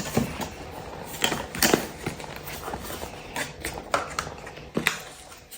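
Product packaging being handled and opened by hand: scattered light clicks, taps and rustles.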